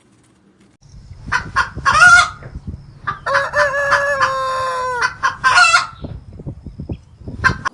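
Chicken calls: short clucks, then one long rooster crow of about two seconds that falls slightly in pitch, followed by more short clucks.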